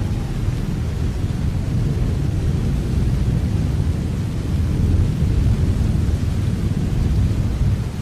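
Steady rain with a deep, even low rumble under it, getting a little quieter near the end.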